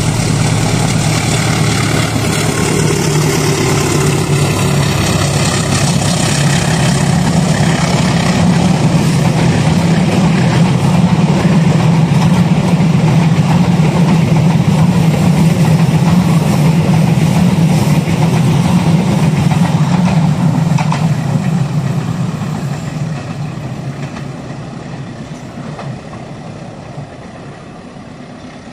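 Diesel-electric locomotive-hauled passenger train passing, its heavy engine drone loudest in the middle and fading away over the last several seconds.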